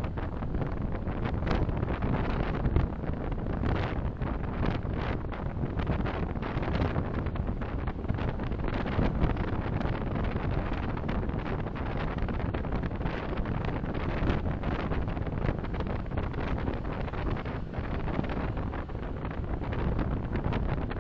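Road and tyre noise of a moving car as heard by a dashcam microphone inside it, a steady rumble with frequent small knocks and rattles.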